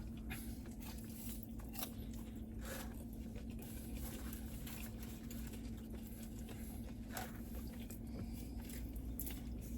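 Quiet chewing and biting of a burger and fries, with a few faint scattered clicks, over a steady low hum.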